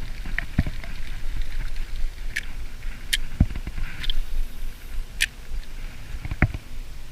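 Kayak on the water: scattered knocks against the hull and sharp clicks a second or two apart, over a steady low rumble.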